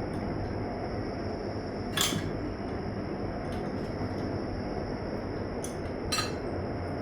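Steady low rumble of a train passing, with sharp metallic clinks of hand tools on the car about two seconds in and again near the end.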